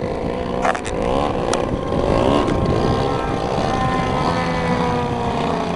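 Engines of two giant-scale radio-controlled aerobatic planes in flight, their pitch rising and falling as they pass and change throttle. Two short clicks come in the first second and a half.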